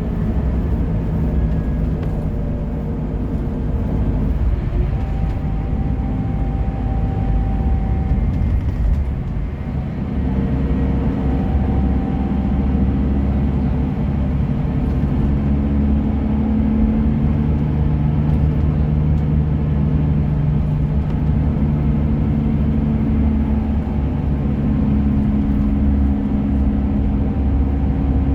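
Bus engine running steadily with a low, even drone, its pitch shifting slightly about ten seconds in.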